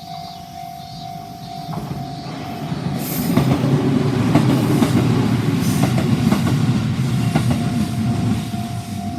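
JR Minobu Line train passing over a level crossing: a loud rumble of wheels with repeated clacks over the rail joints, building from about three seconds in and easing off near the end. The crossing's warning bell rings steadily underneath, drowned out while the train goes by.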